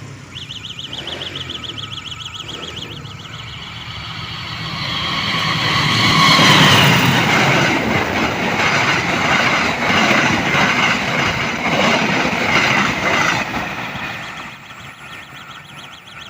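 A bicycle alarm used as a level-crossing warning gives a fast pulsing electronic beep. Then a passenger train passes close by: its rumble swells to a peak about six seconds in, with regular clacking of wheels over rail joints, and fades near the end as the beeping returns faintly.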